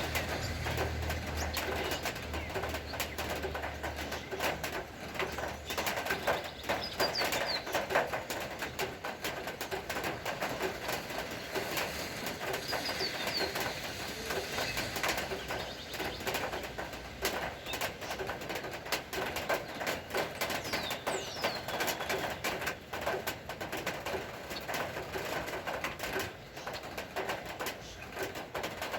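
Rain falling in a dense patter of drops, with birds calling throughout, including short high chirps every several seconds. A low hum fades out in the first few seconds.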